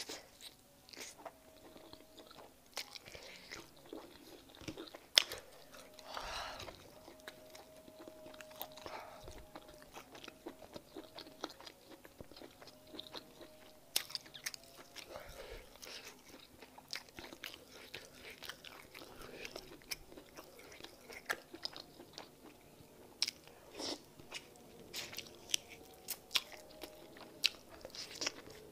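Close-miked biting and chewing of a piece of meat in peanut soup: many short, wet mouth clicks all through, with a few sharper, louder ones.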